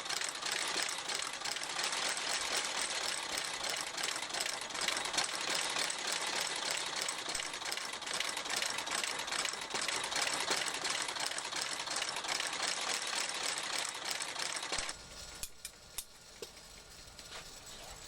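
Shoe repair stitching machine running steadily, then shutting off about fifteen seconds in, followed by a couple of light clicks.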